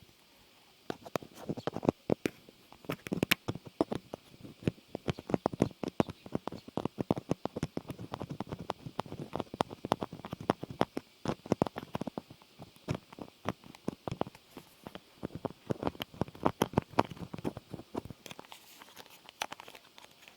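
Close-miked ASMR trigger sounds: a dense, irregular stream of small clicks, taps and crinkles, with a brief pause about a second in.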